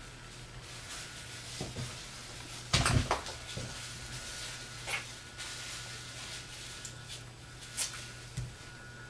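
A few sharp household knocks and clicks: a short clatter of several knocks about three seconds in, then single clicks near the middle and near the end, over a steady low hum.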